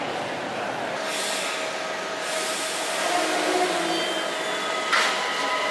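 Light rail train pulling into an underground station: rolling noise with a steady electric whine in several pitches that sets in about a second in, plus a hissing burst early and a sharper one near the end.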